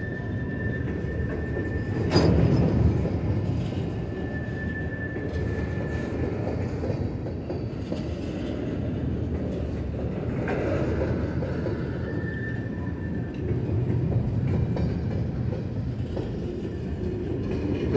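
Freight train cars rolling past at low speed with a steady rumble of steel wheels on rail. A loud clank comes about two seconds in, and a thin high squeal comes and goes three times.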